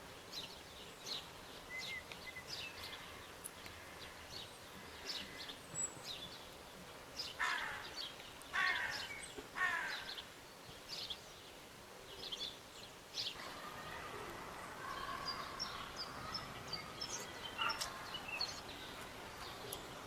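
Wild birds calling: scattered short high chirps throughout, three loud harsh calls about seven to ten seconds in, and a busier, more continuous twittering from about thirteen seconds on.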